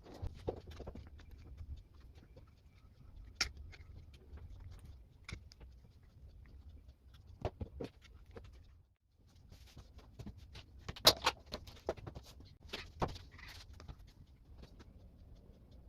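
Scattered clicks, taps and knocks of objects being handled and set down, irregular and unrhythmic, with the loudest cluster of sharp knocks a little after halfway.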